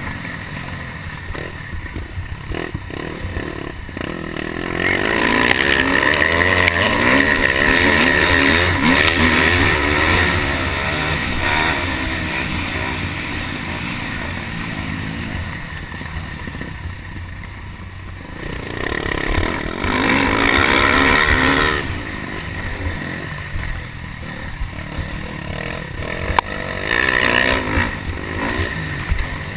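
Motocross dirt bike engine racing on the track, revving up and backing off again and again, loudest for a long stretch about five seconds in and again around twenty seconds, with a steady noisy wash underneath.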